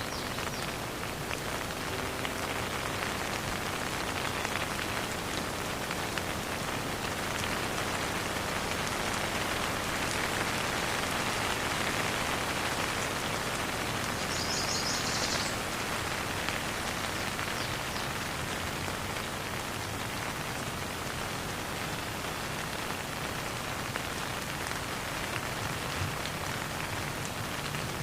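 Steady rain falling and pattering on surfaces, with no thunder. A short high trill sounds briefly about halfway through.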